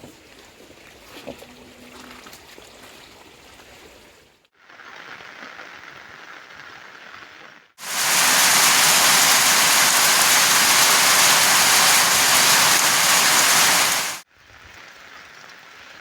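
A loud, steady rush of water lasts about six seconds in the middle, cut in sharply and cut off sharply. Before and after it there is quieter outdoor background noise.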